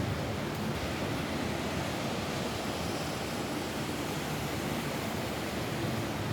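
Steady rain falling on a roof, an even unbroken hiss with no single drops standing out.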